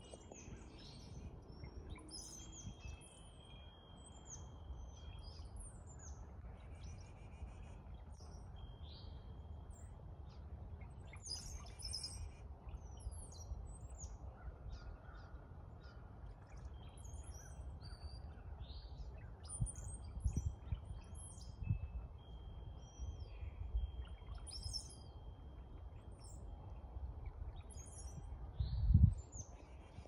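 Small songbirds chirping and calling in a tree, many short high notes overlapping throughout, over a low rumble. A single low thump near the end is the loudest sound.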